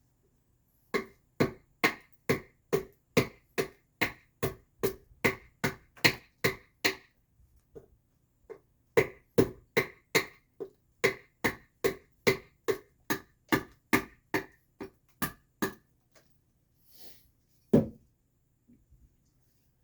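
Hand adze chopping into alderwood, hollowing out the back of a carved mask: steady strokes about two or three a second in two long runs with a short pause between, then one last, louder stroke near the end.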